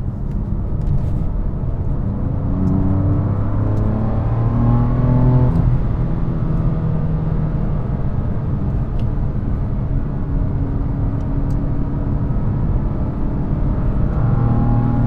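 BMW M3 F80's twin-turbo inline-six heard from inside the cabin, pulling under light throttle: the engine note climbs for a few seconds, falls away about five seconds in, runs steadier, then climbs again near the end, over steady road noise.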